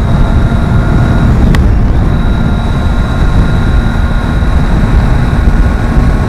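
Heavy wind rush and buffeting on the microphone from a Triumph Tiger 800 XRx motorcycle ridden at highway speed, with the running engine and road noise underneath.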